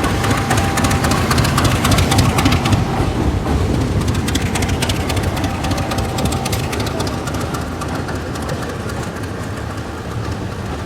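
Train passing close by: a heavy engine rumble with the wheels clicking over the rail joints, loudest in the first few seconds, then slowly fading.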